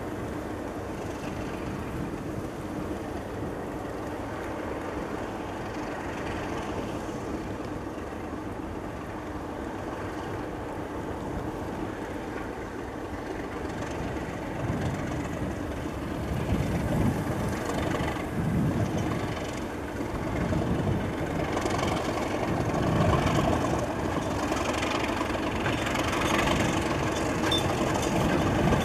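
A train running, growing louder through the second half with an uneven low throb.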